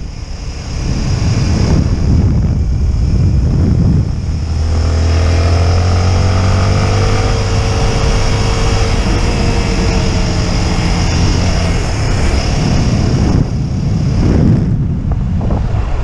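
Motorcycle engine running under way, with heavy wind noise on the microphone; about four seconds in the engine note settles into a steady drone for several seconds before rising and falling again.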